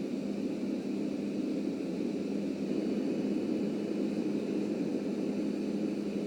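Subway train running along the track: a steady, even rumble with a constant low hum, unchanging throughout.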